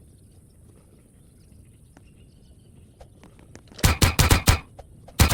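Campfire crackling faintly, then a quick run of about six loud, sharp cracks and snaps about four seconds in, and two more near the end.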